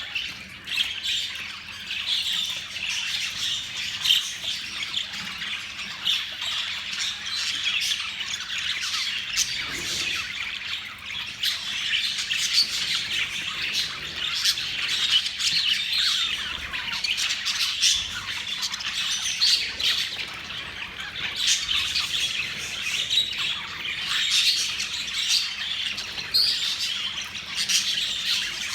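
A flock of budgerigars chattering continuously, a dense mix of warbles, chirps and squawks.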